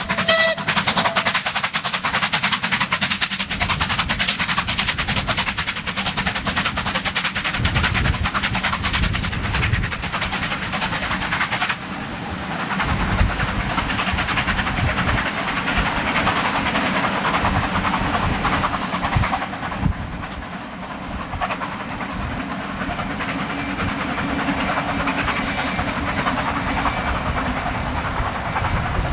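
Pullman coaches of a passenger train rolling past on the track with fast, steady clicking of wheels over the rails. About twelve seconds in the sound changes as the diesel locomotive at the rear passes, adding a steady low engine tone under the rumble of the train moving away.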